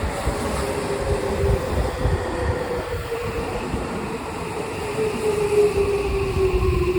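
Seibu Shinjuku Line electric commuter train pulling into the station platform: a low rumble of wheels on rail with a whine that falls slowly in pitch as the train brakes.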